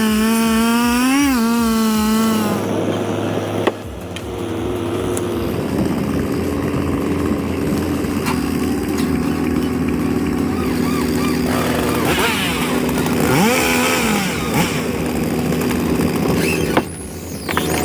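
Two-stroke chainsaw running, its pitch wavering as it revs for the first couple of seconds, then running at a steadier, lower pitch with a brief rev-up and fall about 13 seconds in. It drops away near the end.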